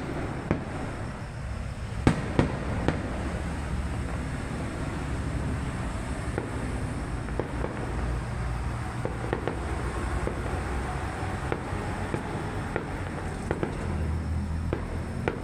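Fireworks going off: a scattered run of sharp bangs and crackles, the loudest three close together about two seconds in, over a steady low rumble.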